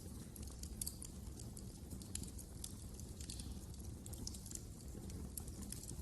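Wood fire crackling: many quick, irregular pops and snaps over a low steady rumble.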